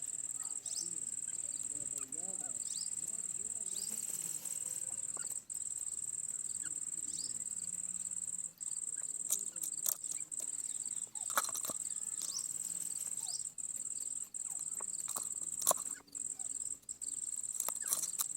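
Steady, high-pitched insect buzz that carries on with only brief breaks, with faint short chirps over it and a few sharp clicks in the second half.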